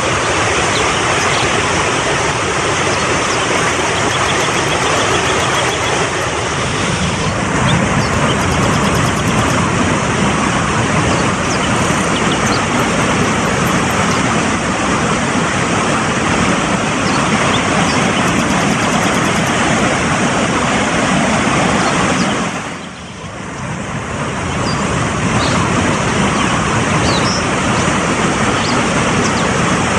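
Fast-flowing mountain stream rushing over rocks, a loud, steady rush of water. It dips briefly in level about three quarters of the way through, then comes back.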